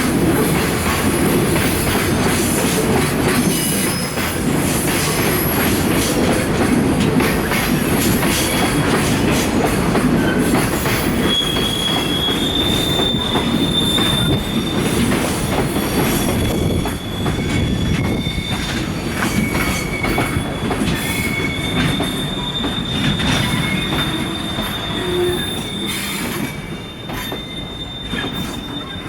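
Container flatcars of a freight train rolling past as it pulls into the station, wheels clicking over rail joints. About a third of the way in, a steady high-pitched wheel squeal sets in and holds, coming and going in strength, as the train slows to stop.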